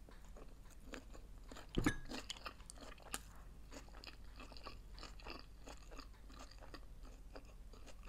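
A person chewing a mouthful of sushi roll: soft, irregular wet mouth clicks and smacks. There is one louder thump about two seconds in.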